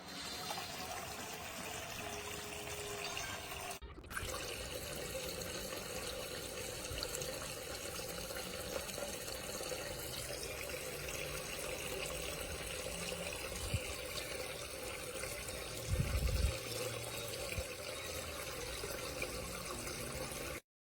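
Water running steadily from a toy play sink's battery-powered electric faucet into its basin. There is a brief break about four seconds in and a low thump around sixteen seconds in, and the sound cuts off suddenly near the end.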